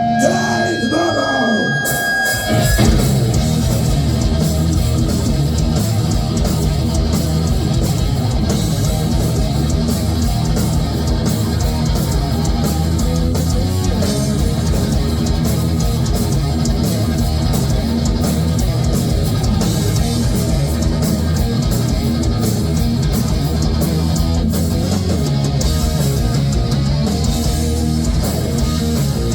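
Heavy metal band playing live, with distorted electric guitars, bass and drums. A held guitar note fades out in the first couple of seconds, then the full band comes in hard at about two and a half seconds and keeps playing steadily.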